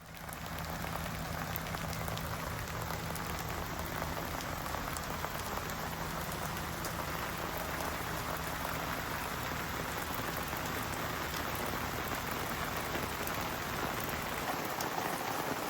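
Steady rain falling and pattering, with a low steady hum underneath.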